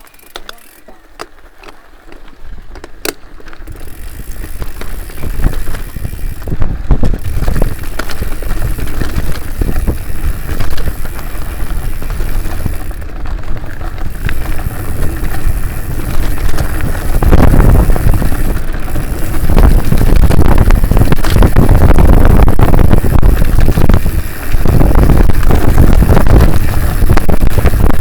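Mountain bike being ridden on a trail: loud rumbling wind and rattle on the camera's microphone, building up over the first few seconds as the bike gathers speed, after a few sharp clicks at the start.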